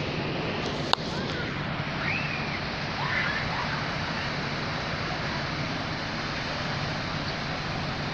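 Steady rushing of floodwater, with one sharp click about a second in and a few faint high chirps a little later.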